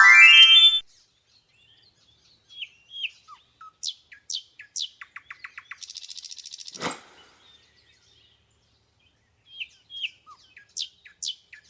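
Short bird chirps and tweets with quick trilled rattles, scattered against an otherwise silent background. It opens with a loud rising whistle, and about seven seconds in a whoosh sweeps down in pitch.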